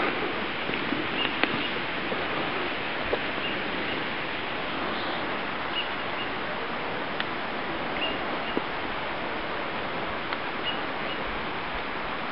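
A bird repeatedly calling short high chirps, often in pairs a second or two apart, over a steady even hiss of background noise.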